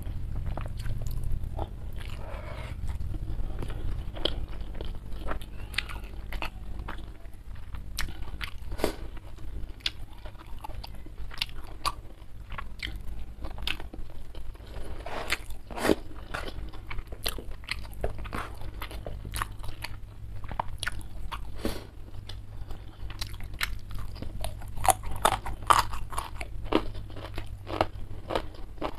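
Close-miked chewing of a mouthful of rice and salted fish eaten by hand, with many irregular short wet clicks and bites, thickest in the second half.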